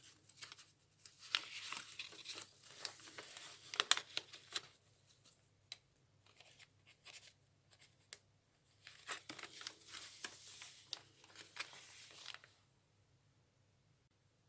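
Crinkly paper pages of a handmade junk journal being turned and handled: irregular rustling and crackling in two spells, the second ending about two seconds before the end, with soft handling noise between.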